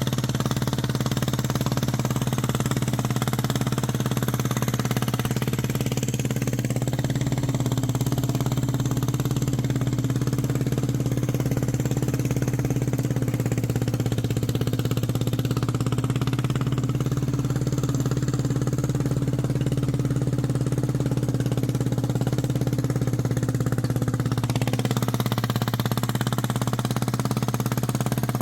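Small engine of a homemade mini tractor running steadily under load while pulling a harrow, its note dropping slightly near the end.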